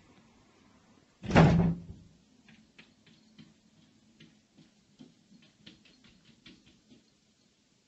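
A single heavy thud about a second in, then a cat's paws tapping lightly and quickly on a window pane, a few taps a second for about four seconds.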